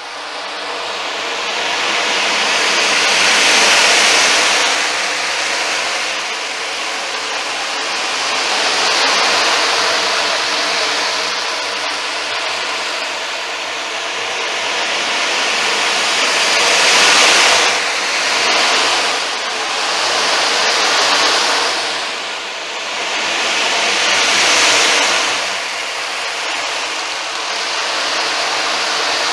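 Ocean drum: beads rolling across the drumhead as it is tilted back and forth, a hissing wash that swells and fades about every four seconds like breaking surf.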